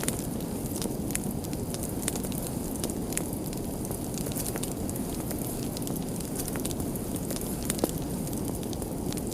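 Fire burning with a steady low rumble and many sharp crackles and pops scattered through it, one louder pop near the end.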